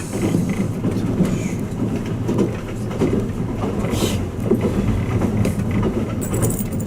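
Twilight Express Mizukaze train running, heard inside the passenger cabin: a steady low rumble of the wheels on the rails with light clicks. A metallic jingle starts near the end.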